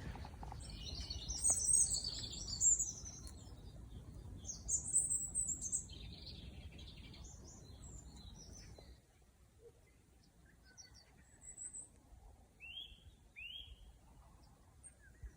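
Small songbirds chirping, with many overlapping high calls in the first half and a few scattered calls later, over a low background noise that drops away about nine seconds in.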